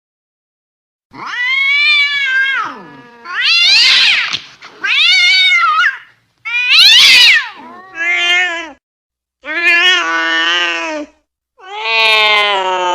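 Cat yowling angrily: a series of about seven drawn-out, wavering calls, starting about a second in, with the last one still going at the end.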